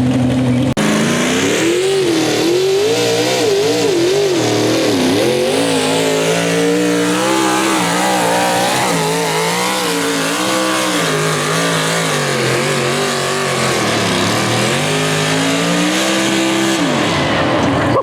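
Modified pulling tractor's engine at full throttle dragging the sled, its revs wavering up and down. About three-quarters of the way through the RPM sags and climbs back, which is put down to the tractor getting loose. Near the end the engine drops off.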